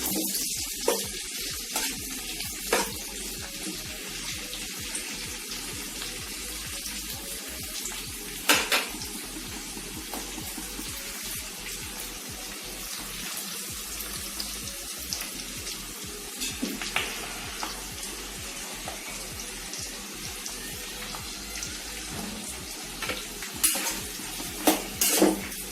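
Cubed onions and chopped garlic sizzling steadily in hot oil in a pan, with a few sharp taps of a spatula stirring them.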